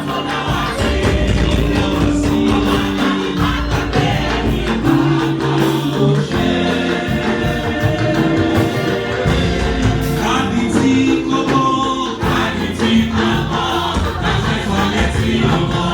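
A church choir singing a gospel anthem over instrumental accompaniment, with steady percussion.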